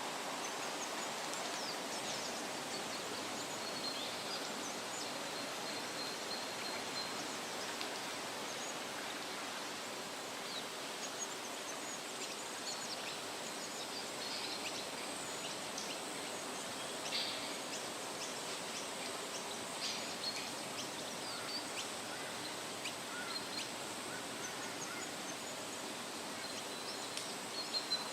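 Woodland ambience: a steady rustle of wind through leaves, with birds chirping and whistling at intervals, including a short series of repeated high notes near the start and again near the end.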